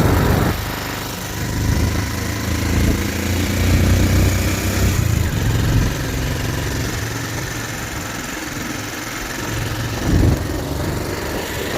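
Motorcycle engine running, heavier for the first five or six seconds and then easing off, with a brief rise in level near the end.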